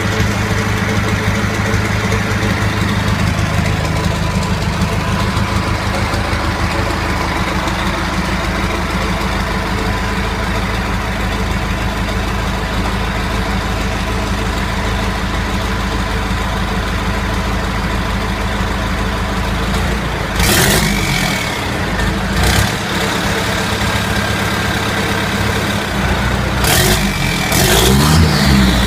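Cummins 4BT four-cylinder turbo diesel running on its first start after being swapped into the truck. It idles steadily, then is revved briefly a few times in the last third, with a whistle dropping in pitch after the revs.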